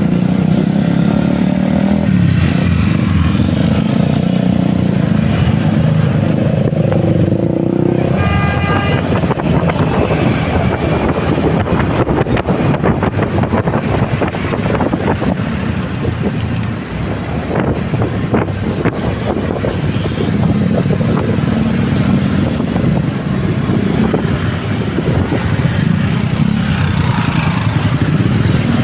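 Motorcycle engine running through road traffic, with a vehicle horn sounding briefly about eight seconds in. Through the middle stretch a rough rushing noise covers the engine before it comes back clearly near the end.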